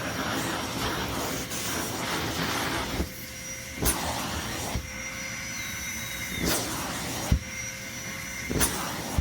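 Vacuum cleaner running: a steady rush of air that drops about three seconds in, leaving a steady motor whine, with a series of sharp clicks and knocks.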